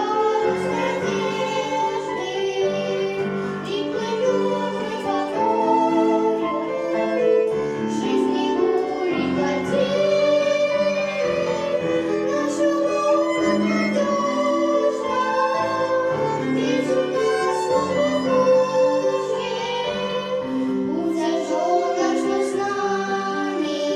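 A children's sacred song performed live: voices singing a melody over violin accompaniment.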